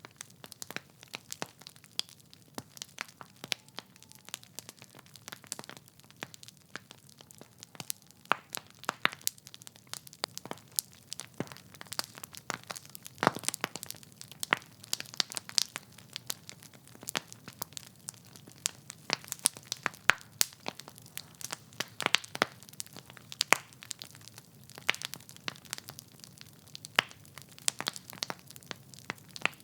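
Wood fire crackling: burning logs popping and snapping in quick, irregular clicks over a soft hiss, with a few louder pops.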